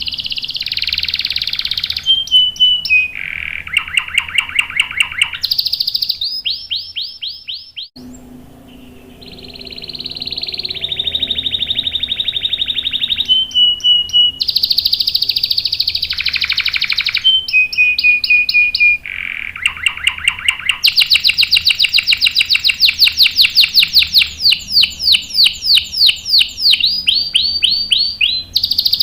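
Canary singing a long, loud song of rapid trills and rolls, changing from one phrase to the next every second or two, with a short break about eight seconds in.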